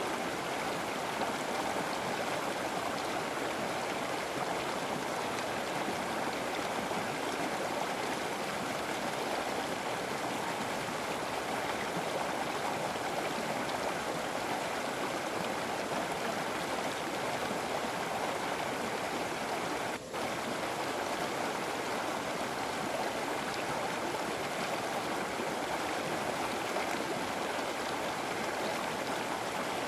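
River water flowing in a steady, continuous rush. It dips out for an instant about two-thirds of the way through.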